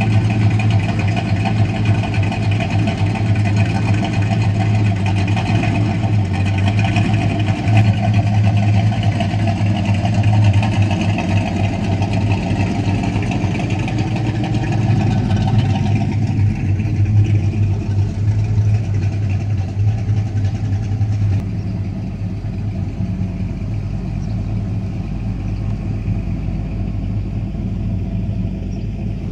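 Classic American car's engine running at a steady idle close by as the car rolls slowly past, loud and pulsing. The sound thins and eases a little about three-quarters of the way through as the car moves off.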